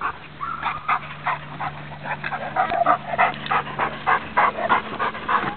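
Dog panting hard and fast, about four breaths a second, winded from the exertion of a retrieve.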